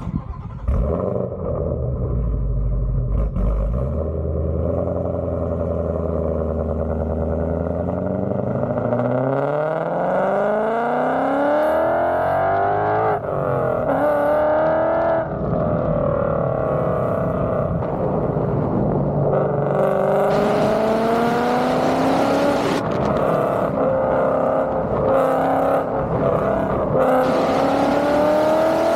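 Ford Coyote 5.0 V8 Mustang with Kooks headers pulling away: a low, steady rumble for several seconds, then the revs climb, drop at a gear change and climb again. Wind and road rush grow louder in the second half.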